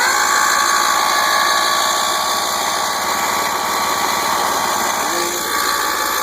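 Electric starter cranking a Mercury 90 three-cylinder two-stroke outboard. It spins up with a quick rising whine, then turns the engine over steadily without it firing, because the engine has no spark.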